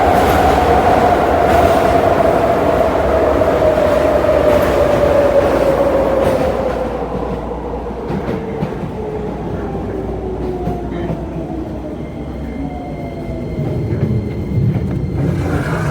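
Keisei 3000 series electric train, heard from inside the car, slowing down: the whine of its Toyo IGBT VVVF inverter and traction motors falls steadily in pitch over the rail and wheel rumble. The running noise drops about halfway through, and a low rumble rises again near the end.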